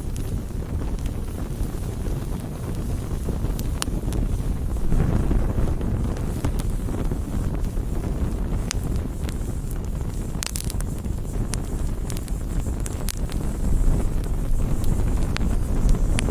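Campfire burning: scattered sharp crackles and pops of wood over a steady low rumble, which swells slightly about five seconds in and again near the end.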